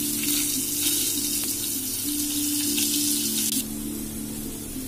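Potatoes shallow-frying in hot oil in a kadai, a steady sizzling hiss that turns fainter about three and a half seconds in.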